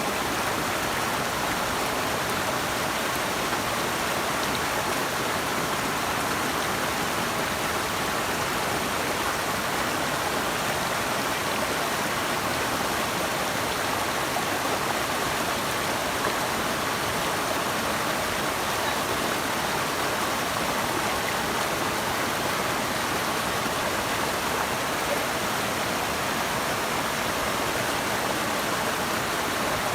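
Running water rushing steadily, an even hiss that holds at one level.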